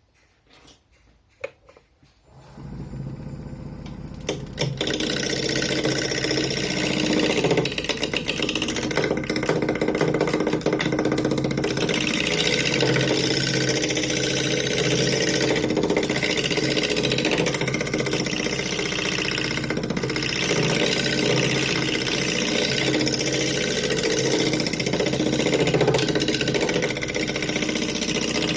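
A few small clicks, then a wood lathe starts up about two seconds in and runs steadily, with a continuous hiss of a tool cutting a spinning pine bowl blank.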